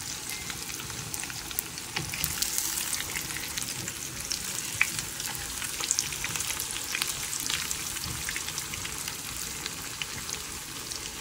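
Breaded tofu slices shallow-frying in hot oil in a pan: a steady sizzle with scattered crackles and pops. Wooden spatulas scrape and tap in the pan now and then as the pieces are turned.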